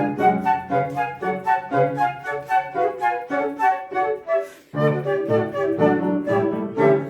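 Flute playing a quick run of short notes over a lower accompaniment, with a brief break about four and a half seconds in before the music picks up again.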